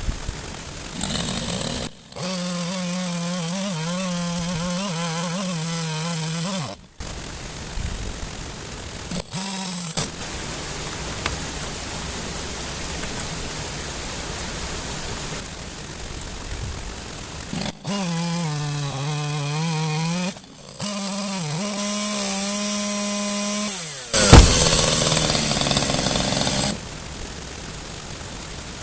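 Chainsaw revving to full speed in two long bursts while cutting up a fallen tree trunk, dropping back to idle in between. A loud crash near the end.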